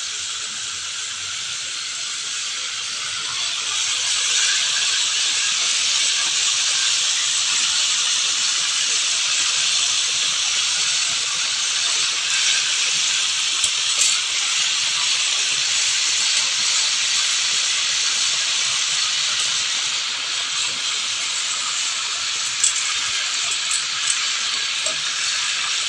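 Tuna pieces frying in oil in a pan, a steady sizzle that grows louder about four seconds in, with a few small crackles and pops.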